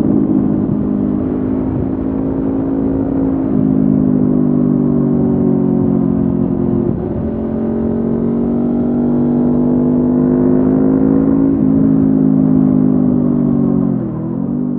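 Honda CB500F's parallel-twin engine running through a Mivv GP Pro aftermarket exhaust at steady riding revs. The pitch drops briefly a few times and climbs slowly in the middle as the revs rise.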